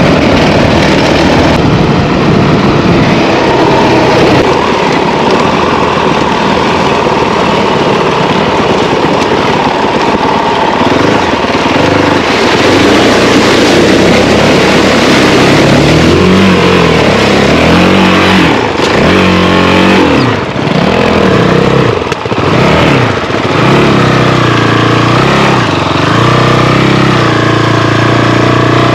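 Honda CRF450L's single-cylinder four-stroke engine running under throttle as the bike splashes through a creek, with loud rushing water spray. In the later part the engine note rises and falls repeatedly with the throttle.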